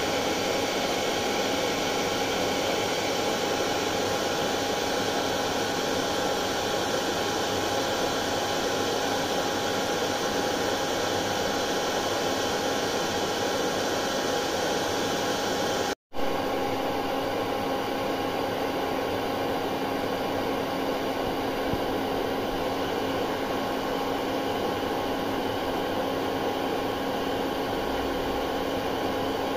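Hair dryer running continuously: a steady airy rush with a constant motor whine. About halfway through, the sound cuts out for a split second and then resumes unchanged.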